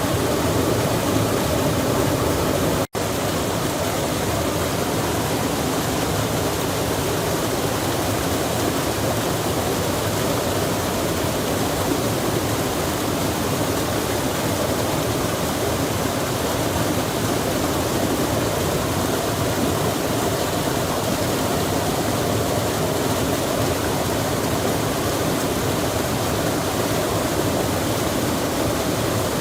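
Steady rushing of a stream with rain falling, an even wash of water noise. The sound drops out for an instant about three seconds in, then carries on.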